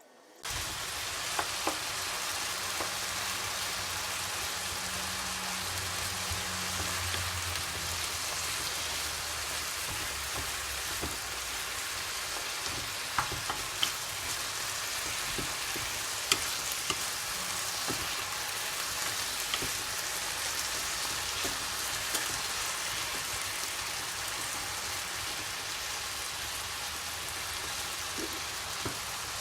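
Food frying in hot oil in a pan: a steady sizzle that starts suddenly about half a second in, with occasional light clicks.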